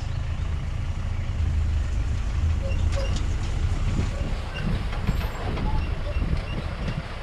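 Steady engine and rumble of a vehicle driving along a rough estate track, with faint short high chirps in the middle.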